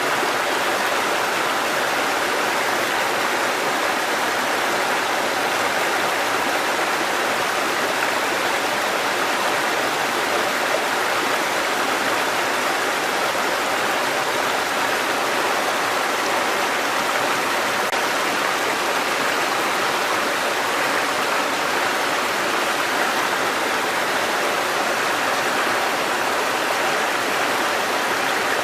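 Mountain stream cascading over rocks, a steady rushing of water with no change in level.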